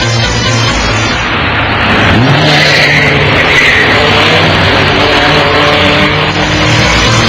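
A car engine revving up about two seconds in and then running steadily, over loud tyre and road noise.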